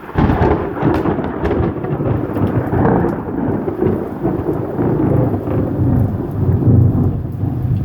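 A nearby thunderclap breaking suddenly, then a long rolling rumble of thunder, with rain falling.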